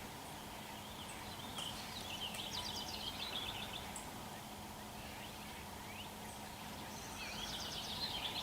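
A small bird singing: two quick trilled phrases of rapid high notes, a few seconds apart, over a steady low hum.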